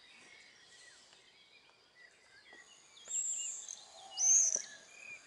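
Songbirds chirping and calling in the background, with two louder, high-pitched calls about three and four seconds in.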